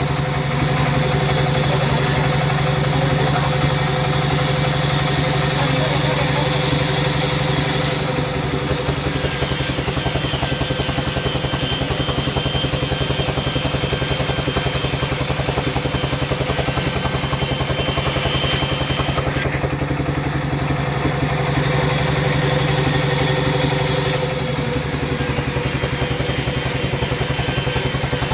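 Sawmill machinery running steadily: the saw's drive engine or motor humming at constant speed, with a high hiss over it that thins out for a few seconds about two-thirds of the way through.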